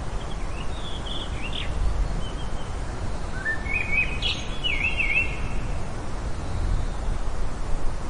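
Bird calls: a few short chirps about half a second in, then a longer twittering phrase of rising and falling notes around four seconds in, over steady outdoor background noise.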